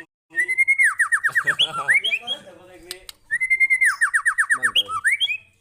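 White-rumped shama (murai batu) singing: two near-identical loud phrases, each a held whistle that breaks into a fast run of falling notes, with a short pause between them.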